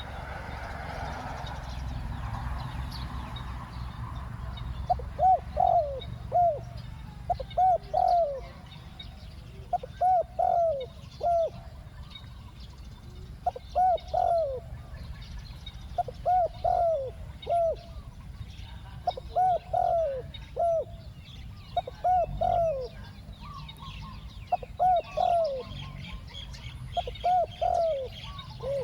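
Spotted dove cooing: a short phrase of several low coos, repeated about every two to three seconds from about five seconds in. Small birds chirp faintly behind it.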